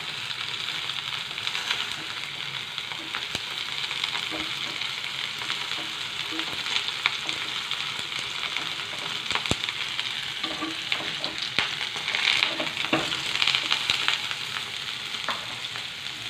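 Parboiled cauliflower florets sizzling steadily in hot oil on a high flame in a non-stick pan. A plastic slotted spatula scrapes and taps now and then as the pieces are turned to brown on all sides.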